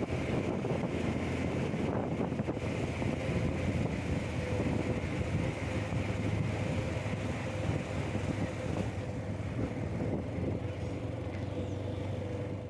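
Steady low rumble with wind noise buffeting the microphone, and a faint steady hum through it. It cuts off suddenly at the end.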